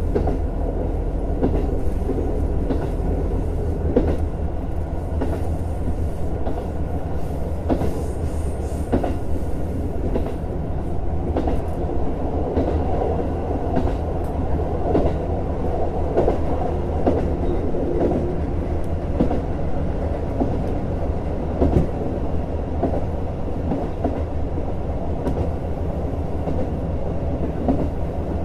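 JR Hokkaido KiHa 150 diesel railcar running along the line: a steady low rumble from the engine and wheels, with irregular clicks and knocks of the wheels over the rail joints.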